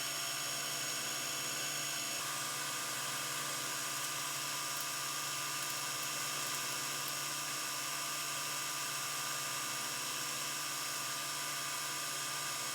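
Steady, unchanging hiss with a faint hum and thin constant tones underneath, with no events in it.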